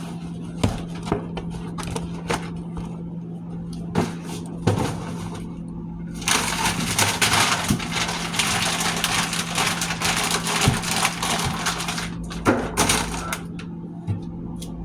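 Frozen food and packages being handled and moved about in a freezer: scattered knocks and clunks, then about six seconds of dense crinkling and crunching starting a little after halfway, over a steady low hum.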